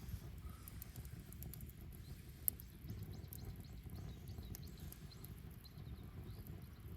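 Wood bonfire burning: scattered small crackles and pops over a low rumble, with one sharp, louder pop about two and a half seconds in.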